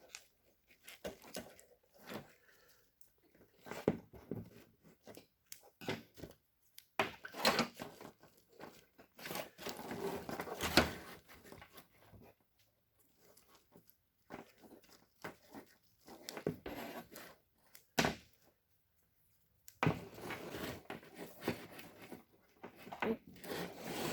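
Electrical tape being pulled off the roll and wrapped around a bundle of engine-harness wires, with crinkling and rustling as the wires are handled, in irregular bursts with a couple of short pauses.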